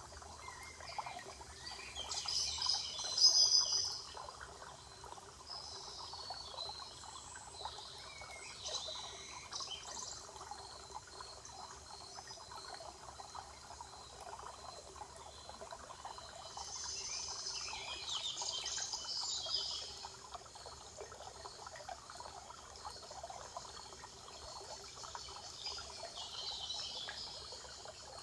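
Forest ambience: songbirds singing in short bursts of high chirping phrases, the loudest about three seconds in and again around eighteen seconds, over a steady trickle of running water.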